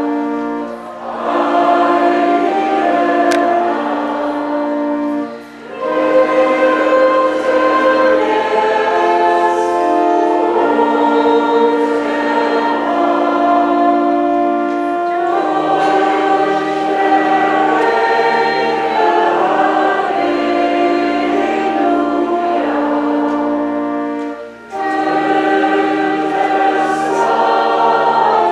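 Church choir singing a hymn in long held phrases, with short breaks between phrases about a second in, about five seconds in and near the end.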